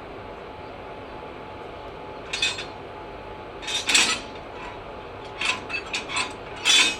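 Metal clanking and scraping: a string of short, sharp clatters, the loudest about four seconds in and just before the end, over a steady background hum.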